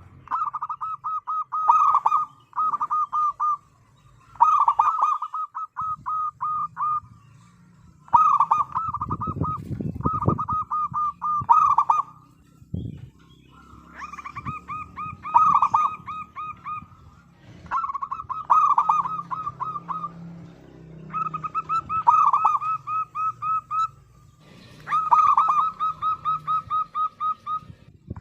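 Zebra doves (perkutut) singing: repeated bouts of rapid, staccato cooing, each two to three seconds long, coming about every three seconds. A low rumble sits under the song about nine seconds in.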